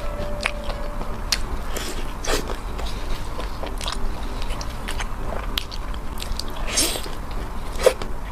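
A person biting and chewing food close to the microphone: scattered short wet mouth clicks, with one longer noisy bite about seven seconds in.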